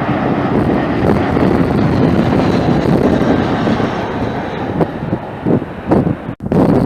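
Strong wind buffeting the microphone: a loud, low rumble that surges and dips in gusts, dropping out for an instant just before the end.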